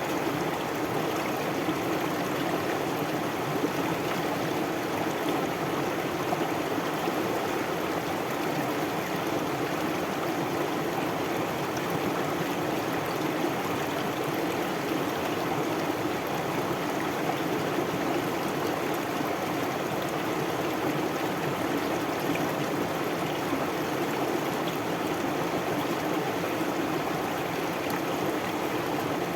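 A stream flowing, a steady, even rush of water that does not change.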